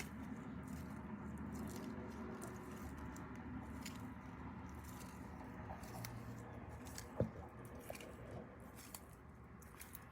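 Sulcata tortoise biting and chewing dandelion leaves: faint, irregular crunching clicks, with one louder knock about seven seconds in.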